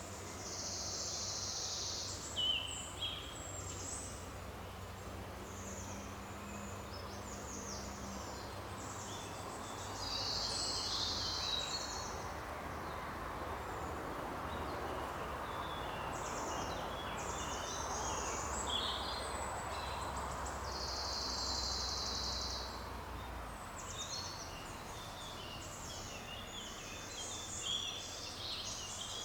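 Forest ambience: a steady hiss, with birds singing in repeated high chirps and trills throughout.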